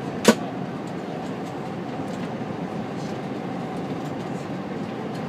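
Steady running noise of an E2-series Shinkansen heard inside the passenger cabin: an even rumble with faint scattered clicks, and one sharp knock about a third of a second in.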